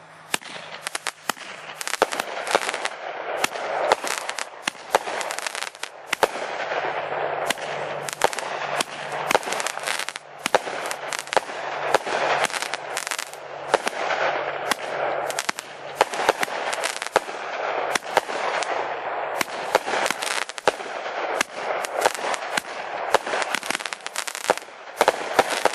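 Fireworks going off in a dense, continuous barrage of sharp bangs and crackles, several a second, with aerial shells bursting overhead.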